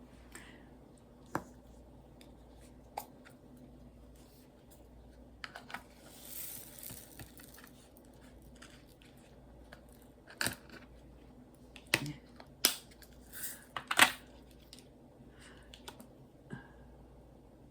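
Scattered small clicks and taps of diamond-painting work, with the drill pen and plastic drill tray being handled, and a brief soft rustle about six seconds in.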